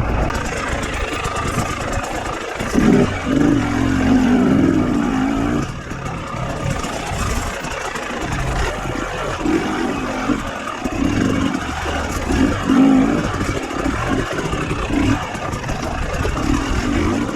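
KTM 250 XC-W two-stroke dirt bike engine, revved up and down in short bursts of throttle at low speed, over a constant rush of noise.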